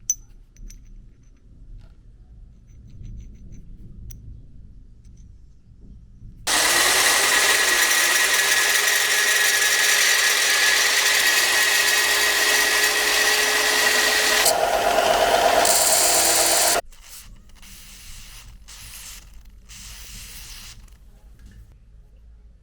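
A handheld electric power tool starts up about a third of the way in and runs loudly and steadily for about ten seconds, its sound changing shortly before it cuts off suddenly. Quiet handling knocks come before and after.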